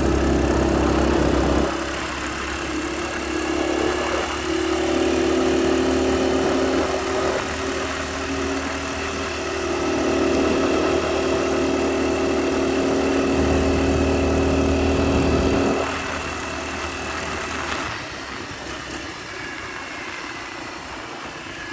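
A mini bike's Predator 212 single-cylinder four-stroke engine running under throttle, its pitch rising and falling slightly as the rider varies speed. Near the end the engine note drops away and becomes quieter.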